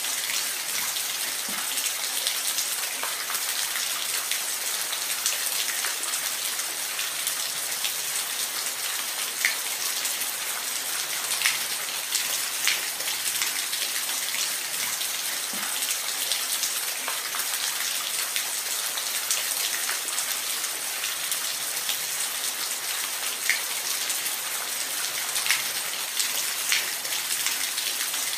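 Waterfall: a steady rush of falling water, with scattered small splashes standing out here and there.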